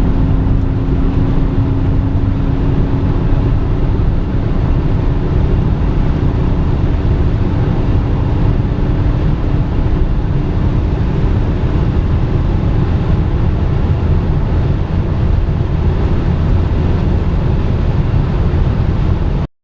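Opel Omega B 2.5 DTI at high Autobahn speed, heard from inside the car: a steady rush of wind and tyre noise under the drone of its common-rail inline-six diesel. The engine drone sinks slightly in pitch over the first dozen seconds, and the sound stops abruptly near the end.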